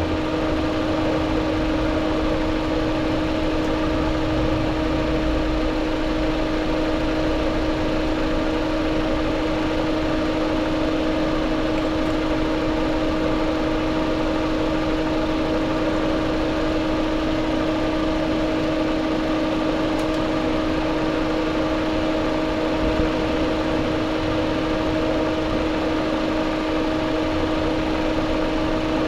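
A steady machine hum with a constant pitch, from a running motor or fan, holding unchanged without any revving.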